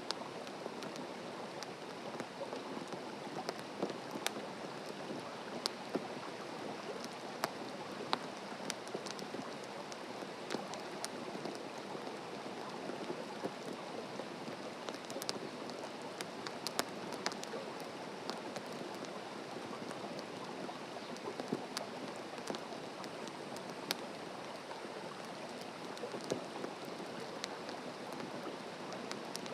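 Wood campfire burning, a steady hiss dotted with frequent sharp, irregular crackles and pops.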